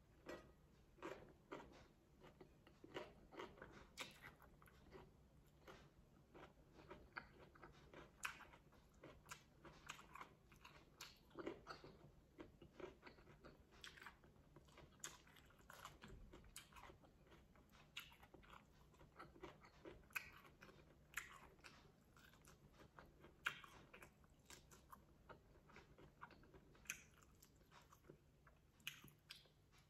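Faint close-up chewing of a lettuce-wrap taco: irregular soft crunches and wet mouth clicks, about one every half second to second.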